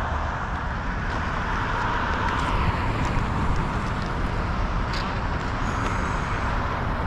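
Steady noise of car engines and traffic, with a low rumble and no clear single event.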